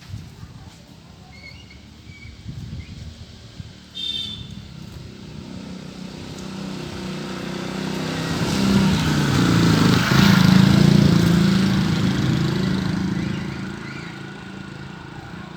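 A motor vehicle passing close by: its engine sound swells over several seconds, peaks about two-thirds of the way through with the pitch bending, then fades away.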